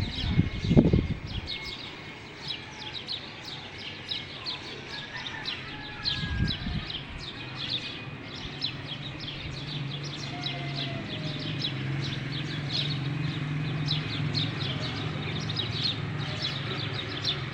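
Birds chirping: many short, high chirps repeated over and over. A loud low thump comes about a second in and a smaller one later, and a low steady hum sets in about halfway through.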